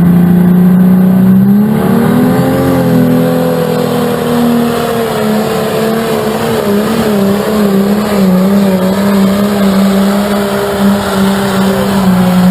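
Competition pulling tractor's engine at full throttle under heavy load, loud and steady. Its pitch climbs a little about two seconds in and then holds with small wobbles.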